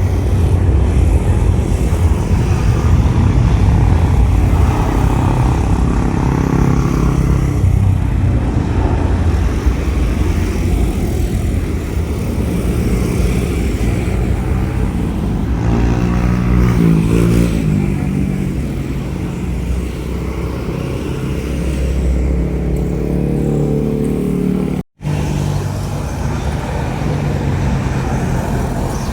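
Jet airliner's engines during takeoff: a loud, low rumble that is strongest at first and slowly fades as the aircraft climbs away. It cuts off suddenly near the end, and a similar rumble of another aircraft follows.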